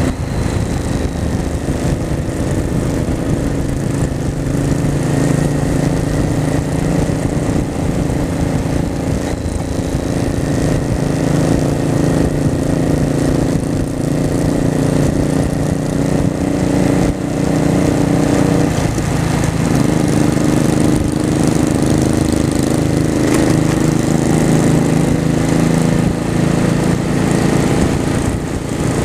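Honda Shadow V-twin motorcycle engine running steadily while riding, with a brief dip in the engine note about two-thirds of the way through before it picks up again.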